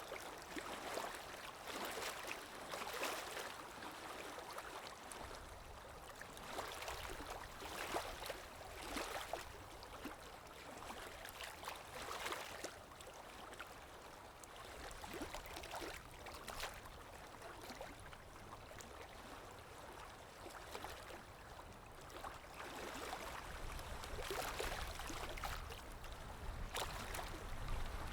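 Underwater ambience: a steady wash of moving water that swells every second or two, over a low rumble that grows stronger near the end.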